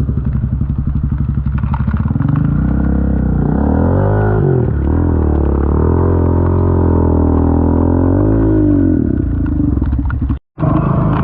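Honda TRX 450 ATV's single-cylinder four-stroke engine chugging at low revs, then revving up under way, its pitch climbing and falling back twice as the rider works the throttle. The sound cuts out for a moment near the end.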